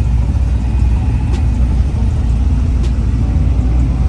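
Deep, steady rumble of a car engine idling close by.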